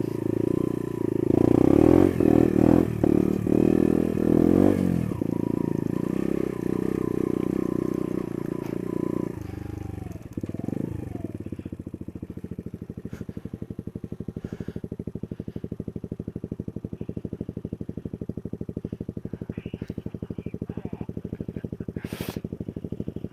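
Small single-cylinder trail bike engine working hard over rough ground, its pitch rising and falling, then dropping after about ten seconds to a steady idle with an even pulse. One sharp knock near the end.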